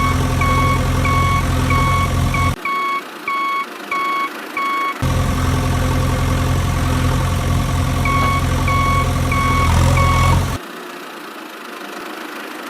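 Heavy vehicle engine idling with a reversing alarm beeping steadily about one and a half times a second. The engine cuts out twice, the second time for good near the end, and the beeping pauses for a few seconds in the middle.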